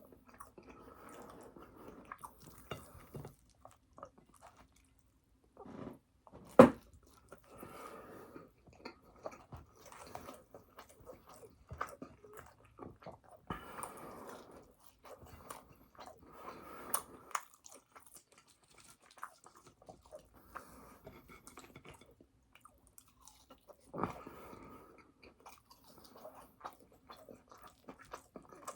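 Close-miked chewing and biting of food, with wet mouth noises and small crunches in irregular bouts and short pauses. One sharp click about six and a half seconds in stands out above the rest.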